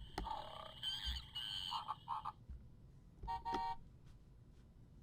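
Fisher-Price Little People Animal Sounds Safari Truck playing electronic animal sound effects through its small speaker, set off by pressing down the safari man figure. One sound of about two seconds starts just in, and a second, short one follows about three seconds in.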